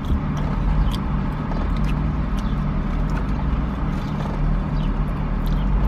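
Steady low hum of a car idling, heard from inside the cabin, with small clicks of fries being eaten.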